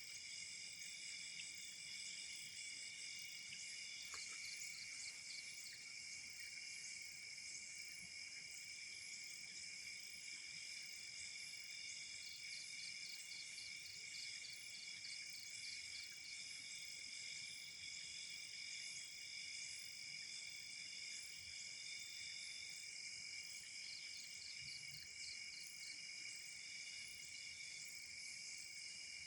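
A chorus of crickets trilling steadily at several high pitches, with a faster pulsed chirping that comes and goes over it.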